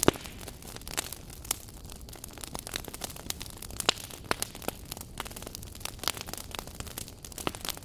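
Wood fire burning in a fireplace, a steady low rush of flame with irregular sharp crackles and pops, several a second.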